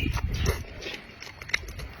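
Close-miked eating sounds: wet chewing and lip-smacking with scattered sharp mouth clicks, louder in the first half second and softer after.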